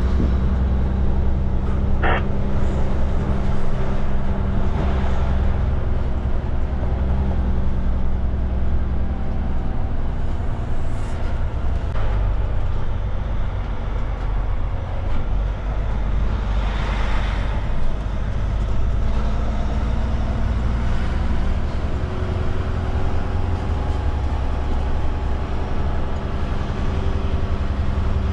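Cummins diesel engine of a Kenworth K200 cabover truck running steadily on the highway, a constant low drone. A brief rushing swell comes about 17 seconds in.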